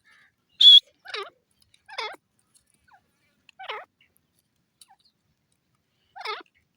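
Grey francolin calling: a loud, sharp, high note about a second in, followed by four shorter, harsher calls that each fall steeply in pitch, spaced a second or more apart.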